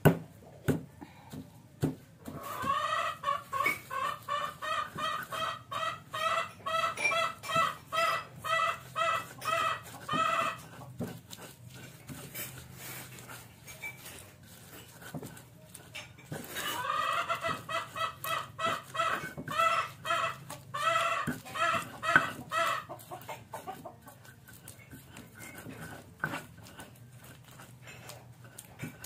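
A chicken clucking in two long runs of quick, evenly spaced calls, about three a second. Scattered sharp clicks and knocks run through the clip.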